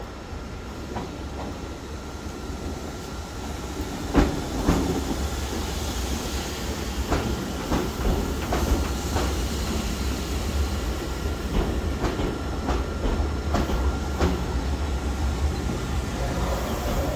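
Passenger multiple-unit train running in along the platform: a low rumble that grows louder about four seconds in and then holds, with the wheels clicking over rail joints as the carriages pass.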